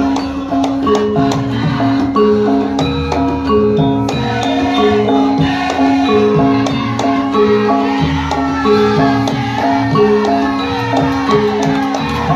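Javanese gamelan ensemble playing, its struck metallophones ringing in a steady repeating melodic pattern over drum strokes.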